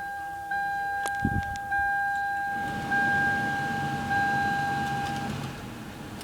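In-car warning chime sounding as a steady tone, broken about every second, with a low thump about a second in. About two and a half seconds in, the car's 3.0-litre V6 starts and settles into a low idle. The chime stops a little after five seconds.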